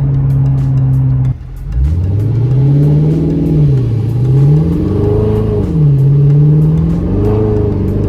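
Dodge Challenger R/T's 5.7-litre HEMI V8 running through an exhaust with the mid muffler deleted: a steady drone, a short dip about a second in, then the engine note rising and falling several times as it accelerates and lets off before settling steady.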